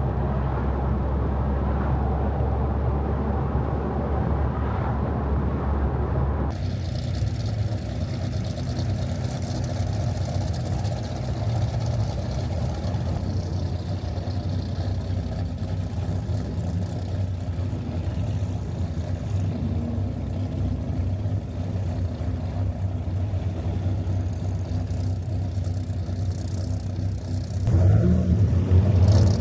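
Dodge Viper's V10 engine running while driving, with road noise. The sound changes abruptly about six seconds in, and the engine grows louder near the end.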